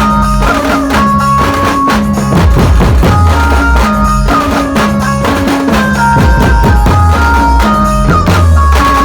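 Dhumal band music: a loud, steady rhythm of drum strokes and a stepping bass line under a melody of held notes.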